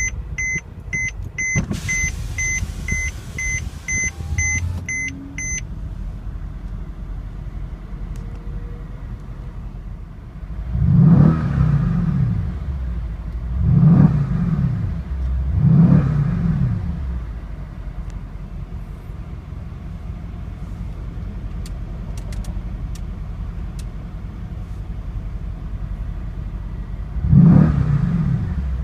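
Mercedes-AMG 5.5-litre bi-turbo V8 idling just after start-up, blipped three times in quick succession in the middle and once more near the end, each rev rising and dropping back. For the first few seconds a dashboard warning chime beeps rapidly over the idle.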